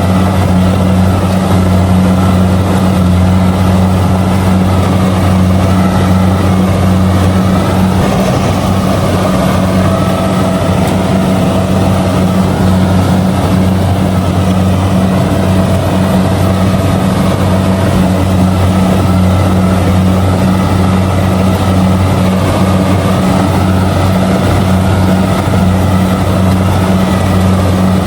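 Kubota DC-70G combine harvester running steadily while harvesting rice: a constant, unchanging low engine drone with the noise of the working machinery over it.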